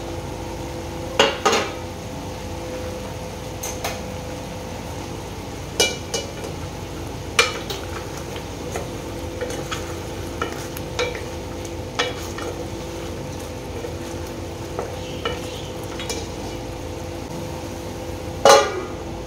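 Chicken pieces sizzling in a metal pot as their released water cooks off, turned with metal tongs that click and scrape against the pot now and then. Near the end a steel plate lid is set back on the pot with a loud clang that rings briefly.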